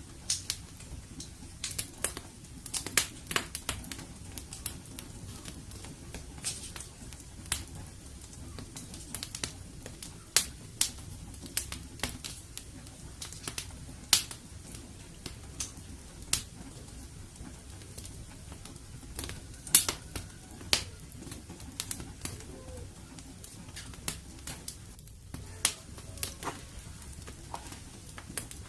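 Wood fire in a fireplace crackling: irregular sharp pops and snaps, a few much louder than the rest, over a steady low rumble.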